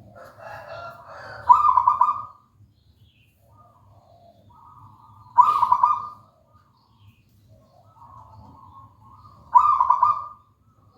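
Zebra dove (perkutut) cooing in its staccato song: three loud rapid phrases about four seconds apart, each led in by softer notes.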